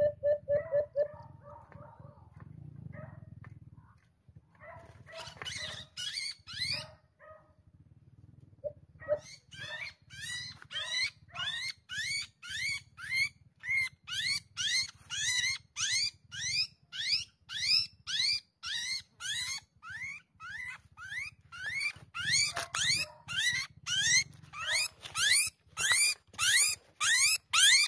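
A small bird caught and held in the hand giving shrill, rising distress calls, about two a second, getting louder toward the end. A low cooing note sounds briefly at the very start.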